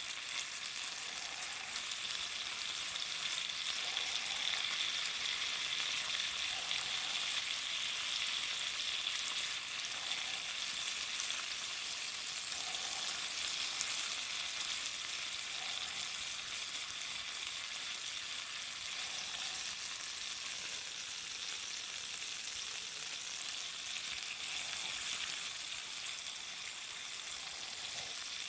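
Garlic shrimp, broccoli and potato sizzling steadily in their sauce in a small cast-iron skillet, with a constant hiss and small scattered pops.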